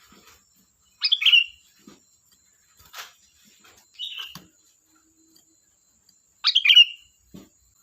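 Sooty-headed bulbul singing: two short, loud phrases of quick bubbly notes, about a second in and again near the end, with a softer call between them and a single sharp click around the middle.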